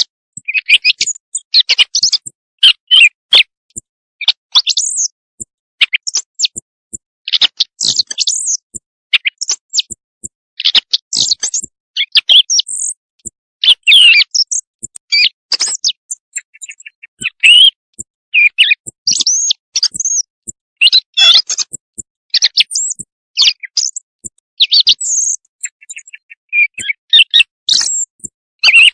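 Recorded quail calls played as a night-time hunting lure: a dense run of short, high chirps and trills, one after another with brief gaps.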